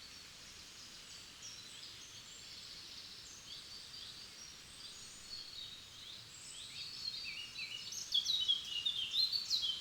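Several songbirds singing in a forest, a scatter of quick chirping notes from different birds. A nearer bird sings a fast run of louder notes in the last two seconds.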